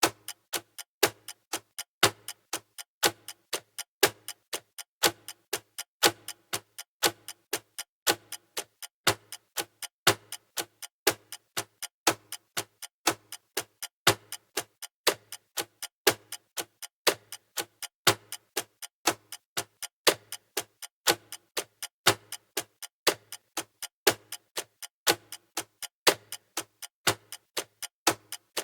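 Clock ticking sound effect of a countdown timer: a steady, even run of sharp ticks, a louder tick once a second with softer ticks in between.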